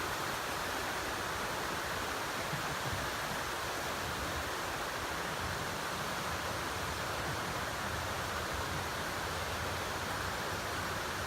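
Steady rush of water pouring down a waterfall, an even hiss with no breaks or changes.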